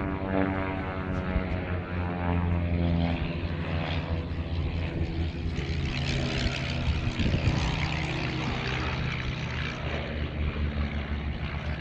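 Light single-engine piston propeller aircraft flying past at low level, its engine steady, then louder and falling in pitch about seven seconds in as it passes.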